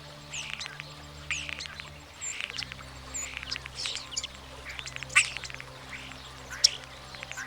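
European starling song: a busy jumble of squeaky whistles, slurred notes, rapid clicks and harsh squawking chatter.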